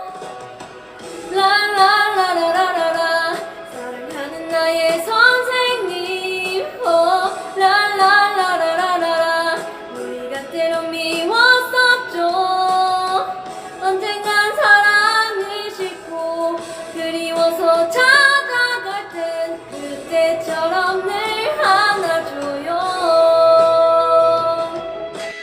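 A woman singing a slow melody in phrases of a second or two with short breaks between them, her voice carrying the tune alone and clearly.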